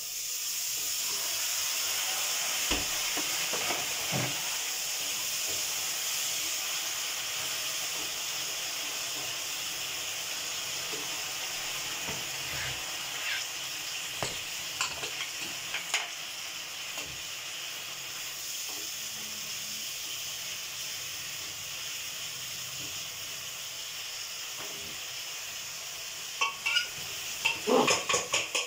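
Chopped vegetables, capsicum and peas among them, sizzling in oil in a black kadai (wok) on a gas stove. The steady sizzle swells about a second in, with occasional knocks of a wooden spatula stirring. Near the end comes a quick run of metallic clinks and clatter as the pressure cooker beside it is handled.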